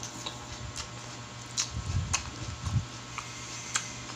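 A person chewing a mouthful of food, with several short wet mouth-smacking clicks spread through.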